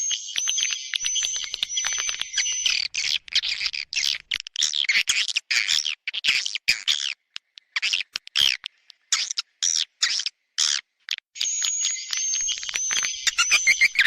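Swiftlets twittering: dense, high chirping calls. They run as one continuous buzzy trill at the start and again near the end, and break into choppy bursts of chirps with short gaps in between.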